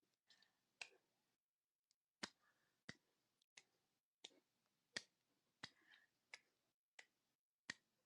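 Faint sharp clicks in a steady rhythm, about one every 0.7 seconds, with soft rustling between some of them.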